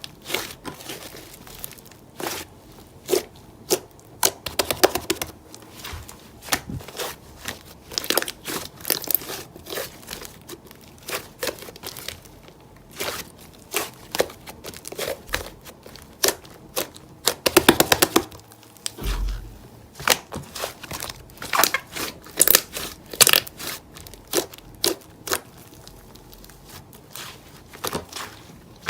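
Close-up crinkling and crackling of crinkly material being handled, with irregular sharp clicks and rustles coming in uneven clusters.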